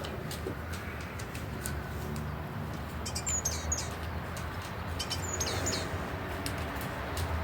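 Birds chirping: two short bunches of high calls, about three and five seconds in, over a steady low hum and scattered faint clicks.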